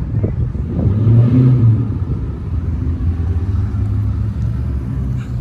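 Car engines running with a low rumble as a slow line of cars rolls past close by; one engine swells louder about a second in.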